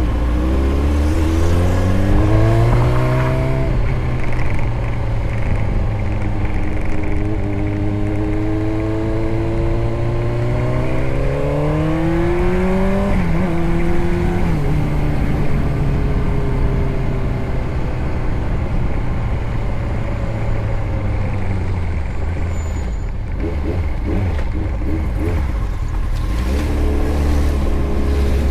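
Motorcycle engine running under way, its pitch climbing as it accelerates, dropping sharply at a gear change about thirteen seconds in, then holding lower and climbing again near the end, over steady wind and road noise.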